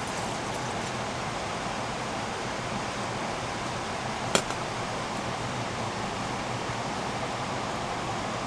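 A steady, even hiss with one sharp click about four seconds in.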